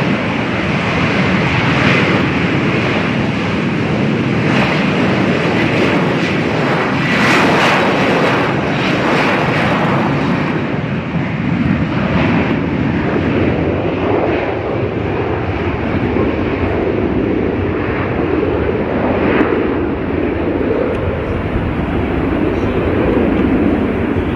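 Jet aircraft engines running, a loud, steady rushing roar; the sharpest hiss drops away about ten seconds in.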